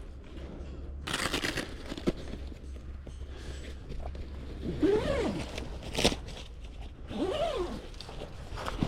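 Camping gear being handled: crinkling and rustling with a few sharp clicks. Two short pitched calls, each rising and then falling, come about five and seven seconds in.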